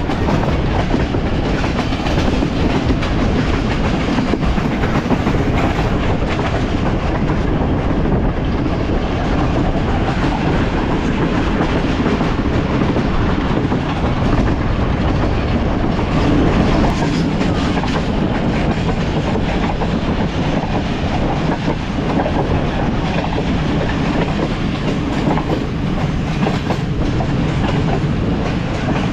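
Passenger train running along the line: a steady, loud rumble of the moving coach with the clatter of its wheels on the rails.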